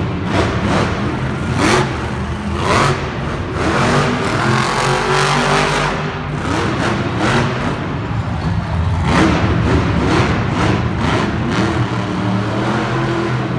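Monster truck engine revving repeatedly, its pitch rising and falling.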